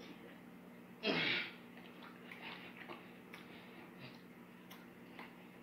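Mouth sounds of chewing a sticky bite of raw honeycomb: faint wet clicks and smacks. There is one sharp, noisy breath about a second in.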